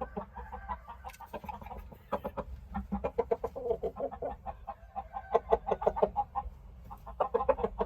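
Chicken clucking in several quick runs of short, repeated notes.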